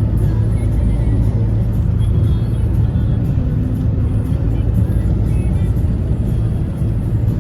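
Steady low rumble of a moving road vehicle, with music playing over it.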